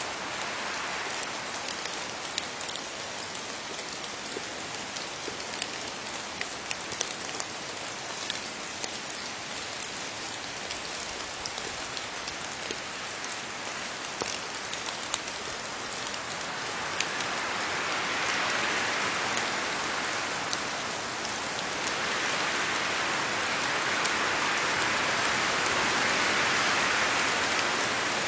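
Steady rain falling on leaves: an even hiss with many sharp individual drop ticks, growing heavier about two-thirds of the way through.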